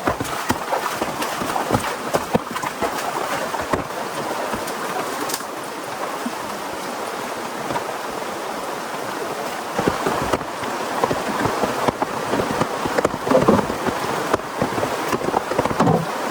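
Steady rain falling, a continuous hiss with many sharp drop impacts scattered through it; a few louder, irregular knocks come about thirteen seconds in and again near the end.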